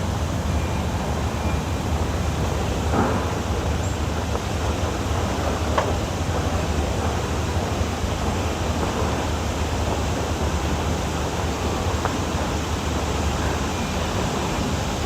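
Steady wind rumble on the microphone, with a couple of faint clicks.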